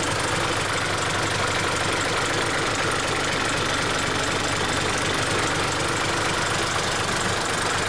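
1999 Isuzu Forward truck's 7.2-litre non-turbo diesel engine idling steadily.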